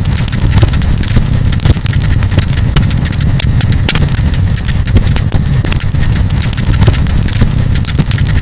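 Campfire crackling, with frequent sharp pops and snaps over a steady low rumble. Short high chirps recur every second or so.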